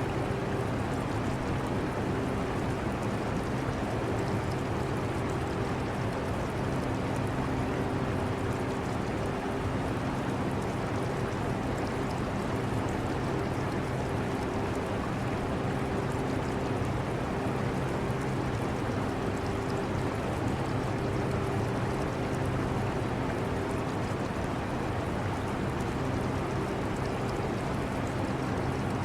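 Portable air conditioner running with a steady rushing hum, its low tones fading in and out, mixed with aquarium water trickling.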